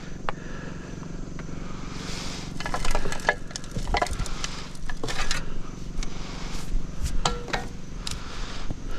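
Repeated metallic clinks and clatters of tools or parts being handled, heaviest in the middle, over the steady hum of an idling engine.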